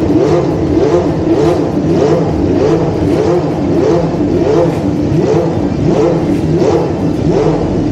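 Racing car engine revved in quick throttle blips, the pitch rising and falling again roughly every half second or so.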